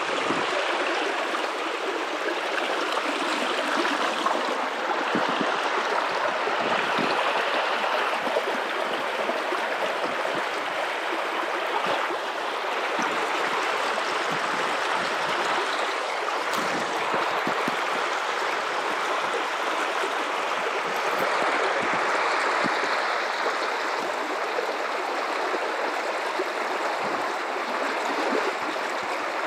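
River water running over rocks: a steady rushing and babbling.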